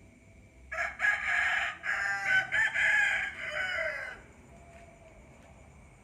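A rooster crowing once, a single long call of about three and a half seconds, starting just under a second in.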